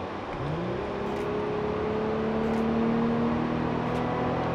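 Mercedes C250 (W204)'s naturally aspirated V6 accelerating. From about half a second in, its drone climbs steadily in pitch as the revs rise under throttle.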